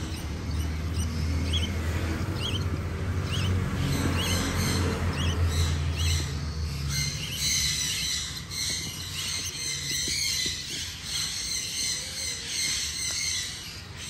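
Birds chirping: short rising chirps about once a second, then from about halfway a dense run of rapid high-pitched chattering calls. A low rumble runs under the first half.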